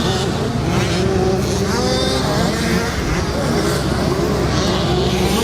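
A pack of 65cc two-stroke motocross bikes racing, several engines revving and changing pitch at once.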